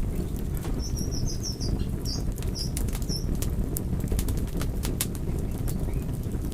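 Fire burning with a steady low rumble and frequent sharp crackles and pops. About a second in comes a quick run of short high-pitched chirps lasting a couple of seconds.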